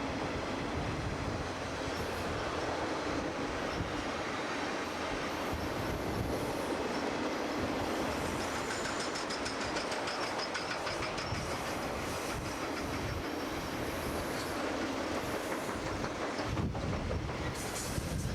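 A train's cars rolling steadily past on the rails, with a run of rapid wheel clicks about halfway through.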